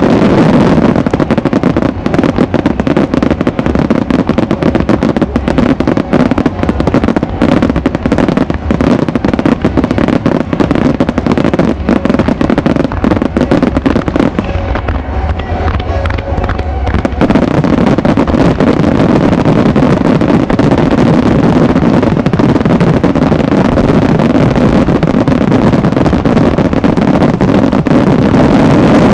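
Rapid-fire barrage of aerial fireworks: dense, overlapping bangs and crackling from many shells bursting at once. About halfway through, the bangs thin out for two or three seconds, then the barrage picks up again.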